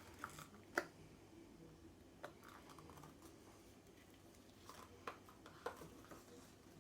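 A few faint, sharp clicks and light taps of small objects being handled, scattered over near-silent room tone.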